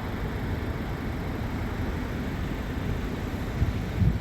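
Steady low rumble of road traffic and idling vehicle engines, with a couple of short low thumps near the end.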